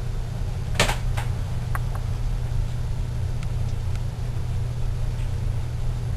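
Tropical-storm wind blowing on the microphone as a steady low rumble, with a few light clicks in the first two seconds.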